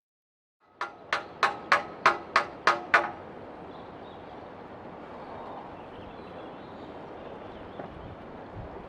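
Eight quick hammer blows on metal, about three a second, each with a short ring, followed by a steady background hiss.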